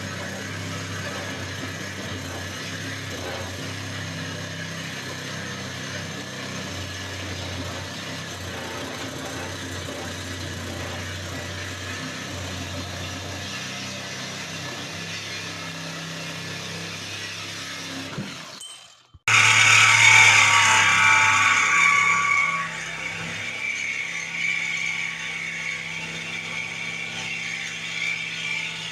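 1982 Chevy S10 engine idling steadily through a custom dual exhaust, a low even drone. About two-thirds of the way through it cuts out for a moment, then comes back as a louder mechanical clatter that settles down after a few seconds.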